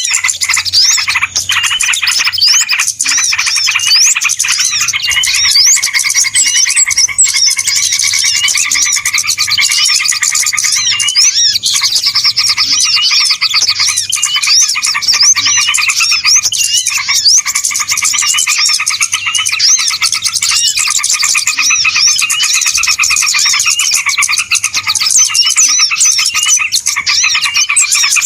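Dense chorus of many small birds chirping and twittering at once, calls overlapping without a pause: a noisy bird-lure (pikat) call used to draw small birds in.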